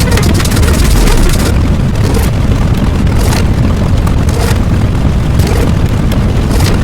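Loud, continuous rumbling noise like a boom or explosion, with short hissing bursts about once a second.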